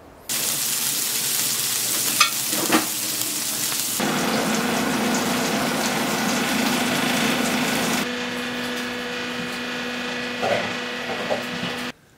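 Breakfast food sizzling as it fries in a hot pan, in a few short clips cut together, with a steady hum underneath from about a third of the way in. A couple of light clicks, like a utensil touching the pan, come early on the sizzle.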